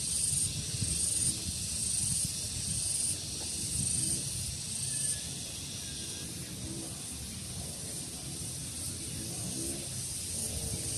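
High buzzing of insects, pulsing on and off about once a second and fading out after about five seconds, over a steady rumble of wind on the microphone.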